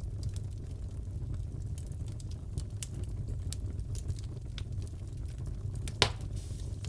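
Crackling fireplace: a steady low rumble of burning with scattered small pops and one louder crack about six seconds in.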